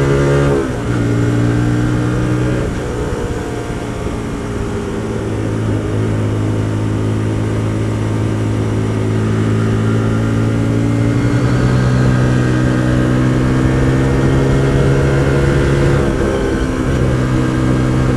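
Hyosung GT125R's 125 cc V-twin engine running under way at fairly steady revs. Its note drops about one and three seconds in, rises again near the middle and drops once more near the end, as the throttle or gear changes.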